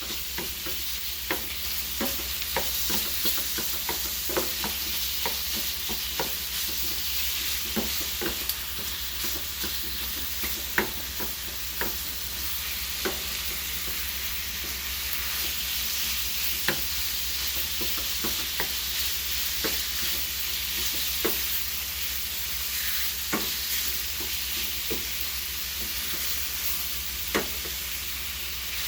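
Chicken thighs, onions, peppers and diced potatoes sizzling steadily in hot oil in a frying pan, with scattered clicks and taps of a utensil stirring against the pan.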